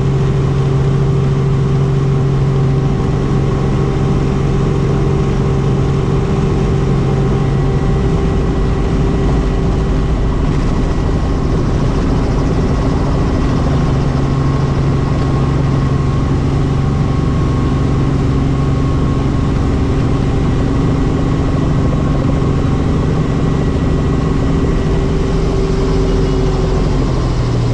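Helicopter running steadily: a loud, even drone with several steady tones held throughout, which shift slightly near the end.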